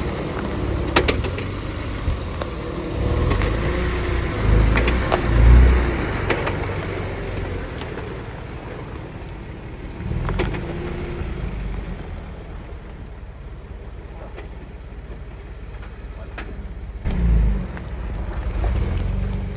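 A 2007 Nissan Xterra's 4.0 L V6 runs as the truck drives over rough off-road track, with scattered knocks and rattles. It swells louder twice, around five seconds in and near the end.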